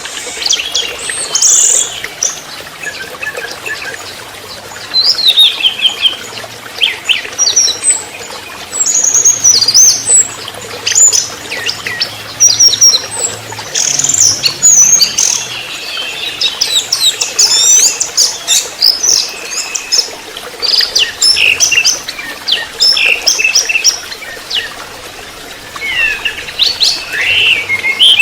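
A young orange-headed thrush singing a rapid, varied song of high whistled and chattering phrases, broken by short pauses.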